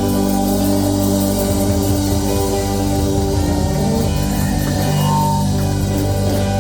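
Live country-rock band music: electric guitars and bass hold long sustained chords over drums.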